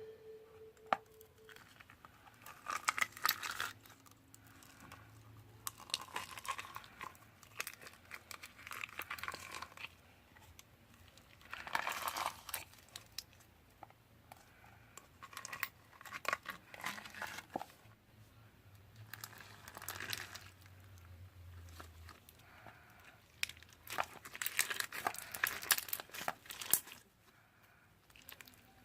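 Slime being squeezed, poked and stretched by hand, giving irregular bursts of sticky crackling and clicking every few seconds.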